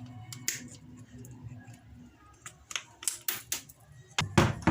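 Sharp clicks and taps of small metal parts and hand tools being handled while a motorcycle starter motor is taken apart, with a louder knock near the end. A faint low hum runs through the first half, then stops.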